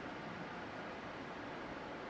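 Faint steady background hiss: room tone with no distinct event.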